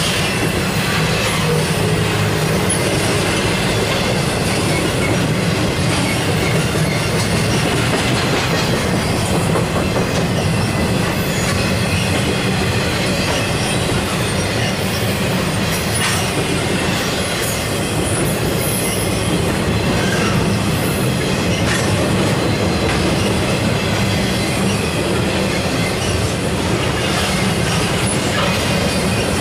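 Intermodal freight train's trailer- and container-laden cars rolling past at speed: a steady, loud rumble and clatter of steel wheels on the rails, with now and then a faint high wheel squeal.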